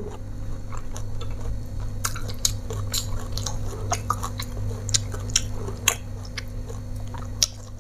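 A person chewing food close to a clip-on microphone, with scattered sharp clicks and crackles as a green petai pod is split open by hand. A steady low hum runs underneath.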